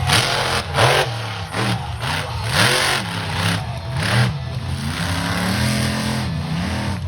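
Monster truck engine revving hard again and again, its pitch climbing and dropping about once a second, with bursts of rushing noise on the bigger revs.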